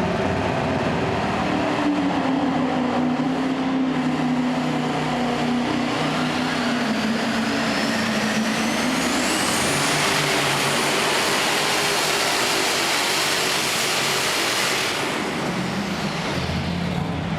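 Super Stock pulling tractor's turbocharged engine running at full power down the track. A loud, steady roar carries a high turbo whine that climbs in pitch through the middle of the pull, and the top end falls away near the end as the throttle comes off.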